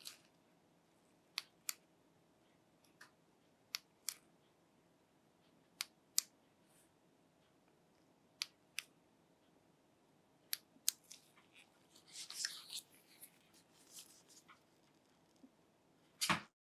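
Light handling noises: sharp little clicks, mostly in pairs, a stretch of scraping or rustling about twelve seconds in, and a louder knock near the end.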